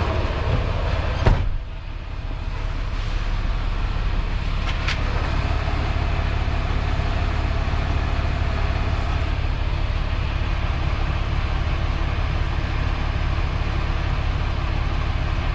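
Semi-truck diesel engine running with a steady low rumble, heard from inside the cab. A single sharp click or knock about a second in is followed by a brief dip in the engine sound.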